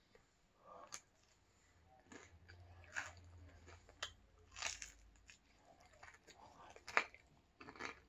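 A person chewing crispy pizza with irregular crunches, the loudest about a second, three seconds and seven seconds in.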